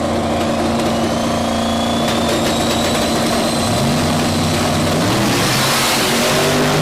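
Modified high-powered car engine running loudly at a steady pitch, then revving up from about two-thirds of the way in. A thin high whine rises slowly in pitch over the first few seconds.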